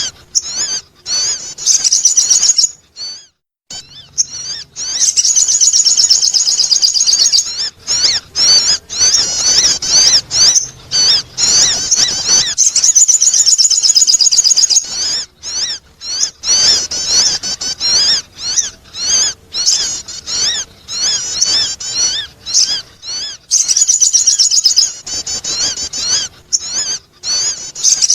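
Sogon bird calling, played as a lure to attract birds: long runs of rapid, high, warbling chirps broken by short pauses.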